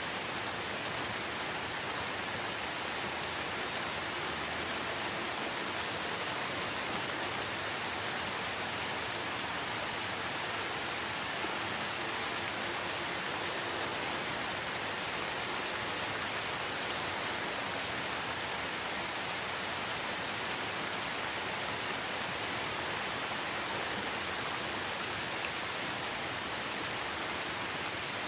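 Steady rain falling: an even hiss that never changes in level, with a few faint clicks.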